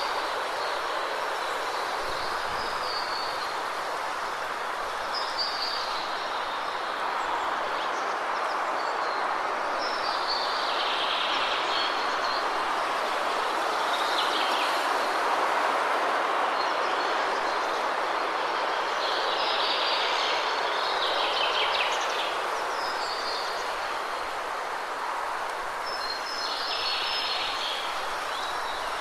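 Waterfall rushing steadily, with birds chirping in short bursts every few seconds over it.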